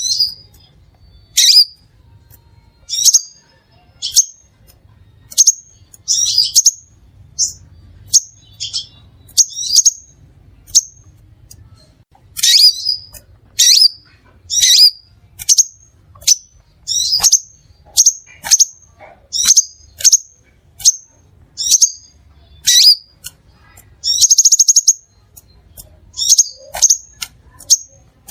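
Crimson sunbird calling: a run of short, sharp, high chirps, roughly one or two a second, with a longer buzzy trill near the end.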